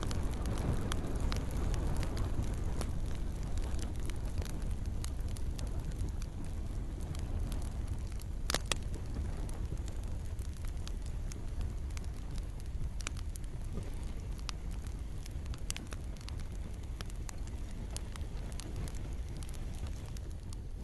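Campfire crackling, with scattered sharp pops over a steady low rumble of burning wood, and one louder pop about eight and a half seconds in. Gentle rain is mixed in beneath.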